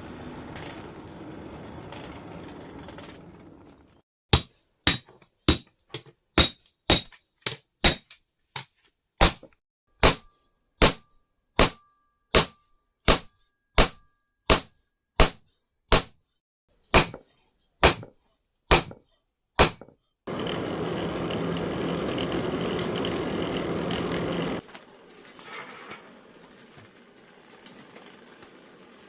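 Blacksmith's hammer striking a machete blade on the anvil, about two dozen ringing blows at roughly two a second. A loud steady machine noise then runs for about four seconds and cuts off.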